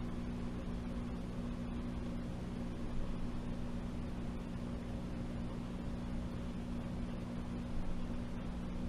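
Washing machine running, heard from inside the drum: a steady low motor hum with two tones over a continuous rushing noise.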